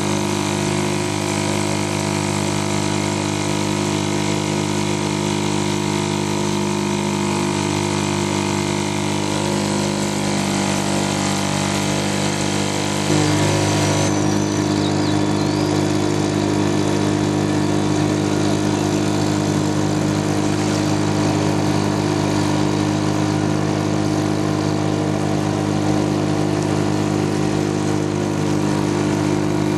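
British Seagull two-stroke outboard motor running steadily under way; about 13 seconds in its note shifts and it gets a little louder.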